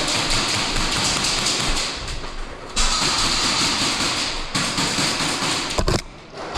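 Airsoft guns firing on full auto in three long bursts, each cut off abruptly, with rapid mechanical clatter between the shots.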